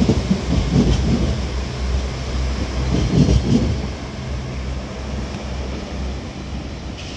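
Northern class 195 diesel multiple unit pulling out of the station, its underfloor diesel engines rumbling deeply. The rumble swells near the start and again about three seconds in, then eases a little.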